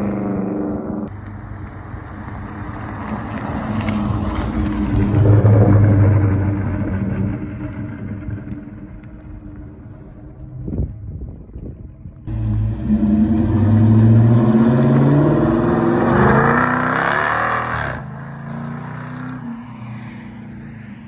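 Exhaust of a Dodge Charger R/T's 5.7-litre Hemi V8 through Carven R mufflers with the resonators deleted, accelerating hard twice. The engine note rises each time, and the first run fades before a sudden cut to the second.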